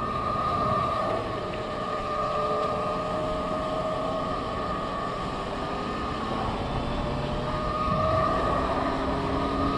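Yatri P1 electric motorcycle under way, its electric motor giving a steady high whine over wind and road noise.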